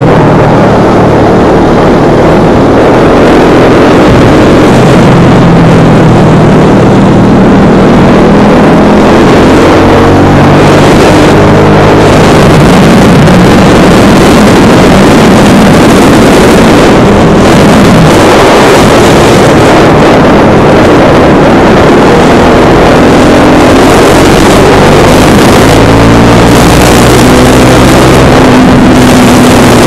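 Husqvarna Vitpilen 701's single-cylinder engine pulling hard under way, its note rising as it accelerates and dropping back at each gear change, several times over. Wind rushes loudly over the microphone throughout.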